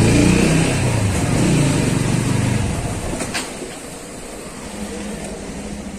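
Single-cylinder engine of a TVS Apache RTR 200 4V motorcycle running, then dropping to a much quieter sound about three seconds in.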